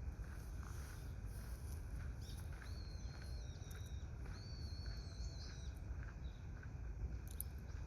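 Faint, high, thin bird whistles: a few short chirps and two held notes of about a second each in the middle, over a steady low rumble.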